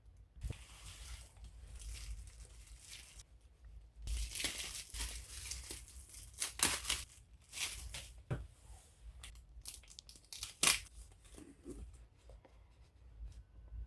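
Packaging being torn open and crinkled by hand in a small room. Soft rustling at first, then a louder run of tearing strokes with several sharp rips, the sharpest about three-quarters of the way through.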